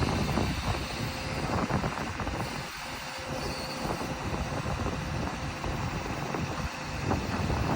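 Heavy diesel engine running steadily, with a faint held tone, under irregular knocks and clatter.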